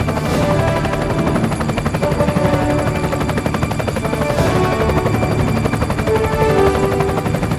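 Helicopter rotor sound effect, a fast steady chop, with background music playing over it.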